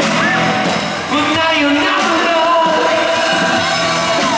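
Rock band playing live in an arena with a sung vocal line over the full band, recorded on a fan's handheld camera.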